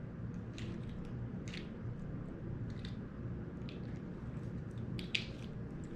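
A table knife spreading sticky peanut butter into the scales of a pine cone: scattered soft, wet clicks and scrapes, several a few seconds apart.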